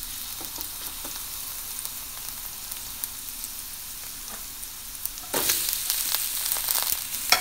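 Minced garlic sizzling in hot oil in a large pan as it is stirred. About five seconds in, the sizzle jumps louder and crackles as sliced onions go into the oil, and a sharp click comes near the end.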